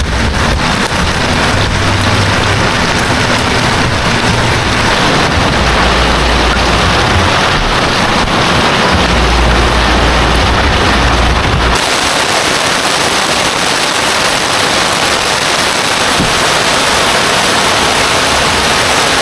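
Heavy rain falling steadily and loudly. A low rumble underneath in the first part cuts off abruptly about twelve seconds in.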